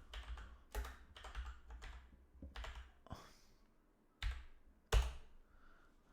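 Typing on a computer keyboard: a run of irregular key clicks, with two louder taps about four and five seconds in.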